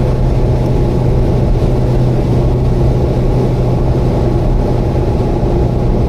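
Subaru Vivio's 660 cc four-cylinder engine and road noise at a steady cruise: a constant drone with a strong low hum that does not change.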